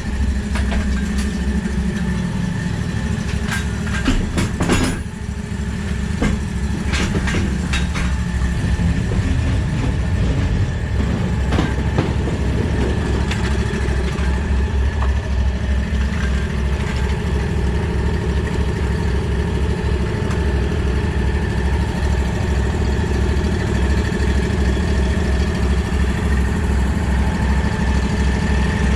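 Mower engine idling steadily, with a few sharp knocks or clatters around four to five seconds in and again about three seconds later.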